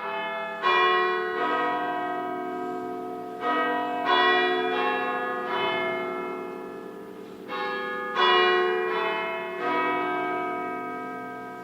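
Church bells ringing: several bells of different pitch struck one after another in about three rounds, each strike ringing on and overlapping the next.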